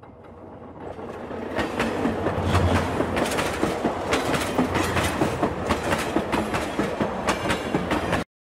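Train running along a track, its wheels clicking rhythmically over the rail joints above a low rumble. It fades in over the first second or two and cuts off abruptly near the end.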